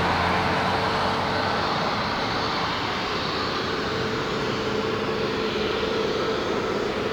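A Boeing 737 MAX 8's CFM LEAP-1B turbofan engines running as the jet comes in to land. It is a steady rushing noise with a faint whine held underneath, fading slightly.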